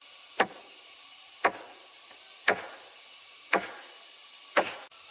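A tool striking wood five times in an even rhythm, about one blow a second, with a faint steady high hiss behind.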